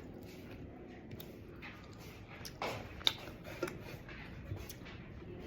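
Quiet eating sounds: faint scattered clicks and a few soft brief rustles as someone eats rice and pork by hand, with a sharper click a little after the middle.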